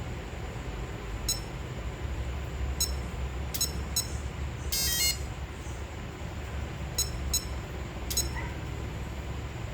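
Electronic beeps from a motorbike's keyless ignition unit: short high single and double beeps every second or so, with one longer warbling chirp about five seconds in, over a steady low rumble.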